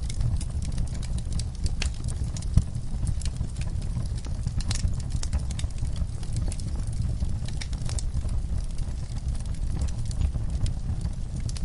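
Wood fire burning in a fireplace: a steady low rumble of flames under irregular sharp crackles and pops, with one louder pop about two and a half seconds in.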